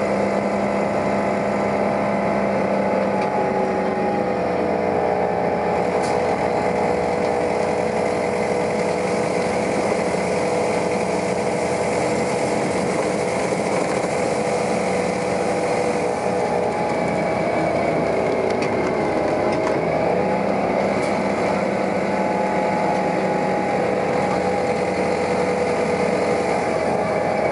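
New Flyer articulated transit bus running under way: a steady engine and driveline drone with several tones that hold, then sag in pitch about two-thirds of the way through and climb again as it pulls away.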